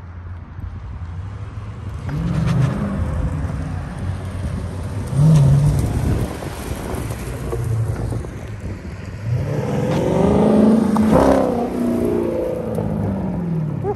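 Dodge Scat Pack's 392 HEMI V8 revving hard several times, its exhaust rising and falling in pitch. The biggest run of revs comes about ten seconds in and then winds down.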